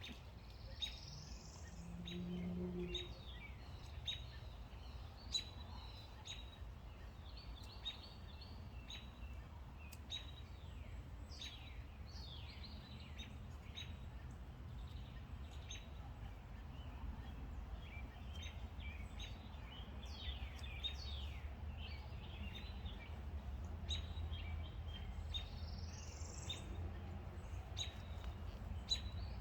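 Wild birds chirping and singing, many short quick calls one after another, over a steady low rumble of wind or handling noise.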